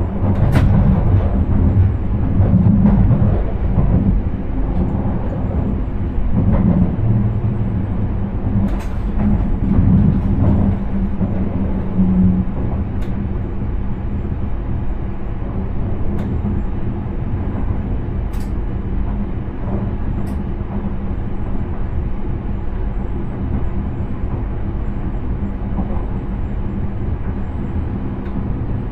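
Intercity train heard from inside the driver's cab while running: a steady low rumble and hum from the running gear and motors. Over the first dozen seconds there are uneven louder knocks, and a few sharp clicks come through.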